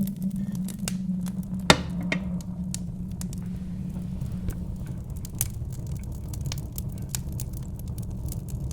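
Wood fire crackling with scattered sharp pops, one louder pop about two seconds in, over a steady low rumble of wind.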